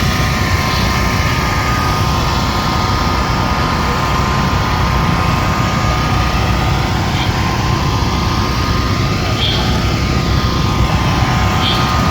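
Many dirt bike engines running at once, a steady, loud buzzing drone of motocross bikes at a race.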